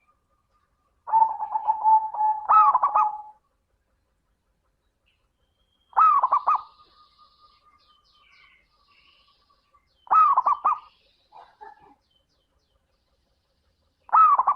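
Zebra dove (perkutut) singing: four short phrases of quick, rolling coos, about four seconds apart, with silence between.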